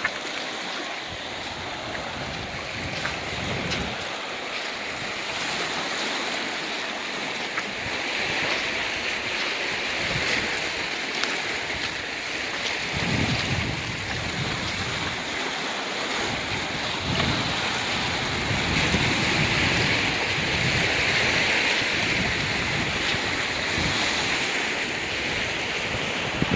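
Ocean surf washing steadily on a rocky shore, swelling louder twice, with wind gusting against the microphone in low rumbles through the second half.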